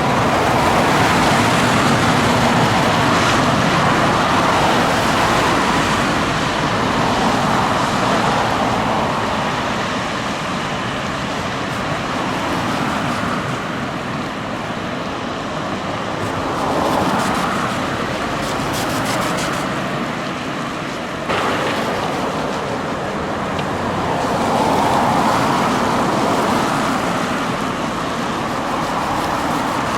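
Steady rushing noise of passing vehicles that swells and fades several times, with a sudden jump in level about two-thirds of the way through.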